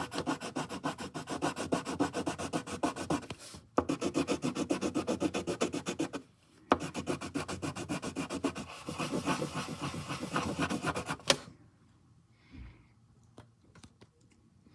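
Pencil shading on paper in rapid back-and-forth strokes, several a second, in three runs with short breaks. It stops a little past the eleven-second mark, leaving only a few faint ticks.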